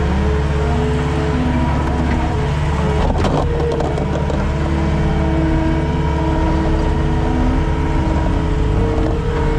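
Skid steer's diesel engine running steadily at working speed, its pitch dipping and rising a little under changing load, with a brief clatter about three seconds in.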